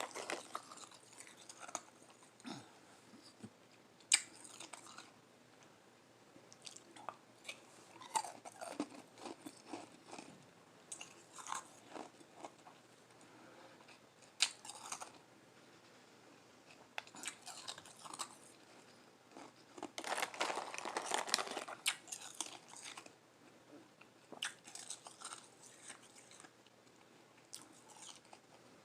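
Close-miked chewing and crunching of lime-flavoured Igloo ice: irregular soft crunches and crackles, with a longer run of dense crunching about two-thirds of the way through.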